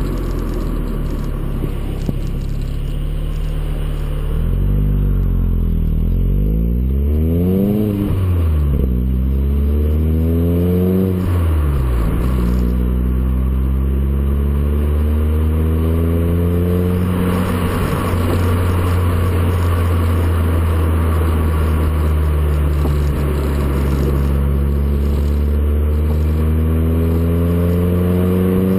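VW Golf 4 exhaust sound through a JOM stainless-steel rear silencer. The engine idles, is blipped up and down twice in quick succession, then its speed climbs slowly, holds, and rises again near the end.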